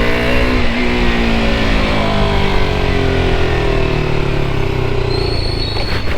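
KTM RC 200's single-cylinder engine running under way. Its note rises briefly, then falls slowly over several seconds as the revs drop. A faint high whine comes in near the end.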